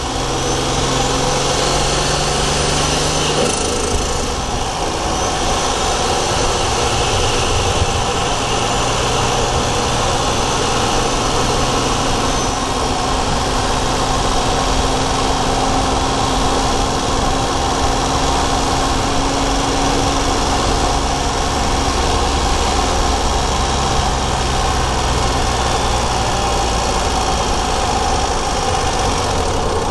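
Daihatsu Charade GTti's three-cylinder turbocharged engine running at a fairly steady pitch, heard from inside the engine bay. A faint high whistle falls away in pitch in the first few seconds.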